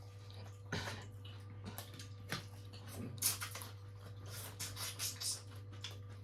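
Close-up mouth sounds of someone eating fried fish: soft wet chewing with a string of short smacks and clicks, busiest between about three and five seconds in, over a steady low hum.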